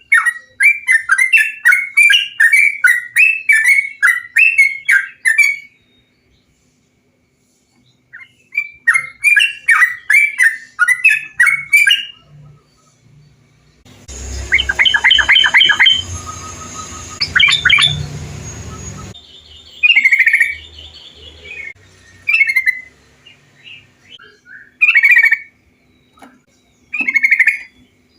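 Trucukan bulbul calls. Two runs of quick, bubbly chirps repeat several times a second, with a pause between them. A stretch with background hiss follows in the middle, then single calls spaced a second or two apart near the end.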